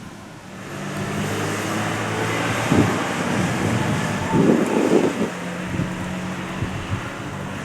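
A railway locomotive running, with a steady low hum and a hiss that swells about half a second in. Wind buffets the microphone in irregular low gusts, loudest around the middle.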